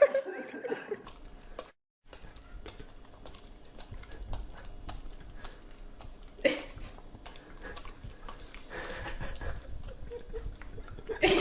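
A dog licking and smacking its mouth on sticky peanut butter, a run of small wet clicks, with one short louder sound a little past halfway.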